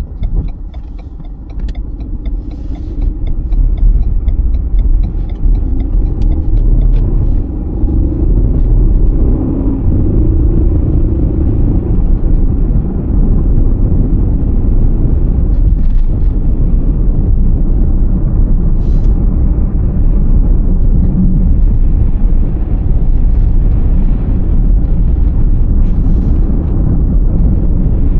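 Car driving on a snowy road: a steady low rumble of tyres and engine that builds over the first few seconds and then holds level, with a few faint clicks now and then.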